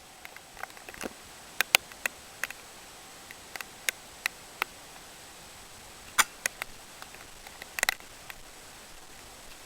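Scattered sharp ticks and taps at irregular intervals, some in quick pairs, over a steady hiss.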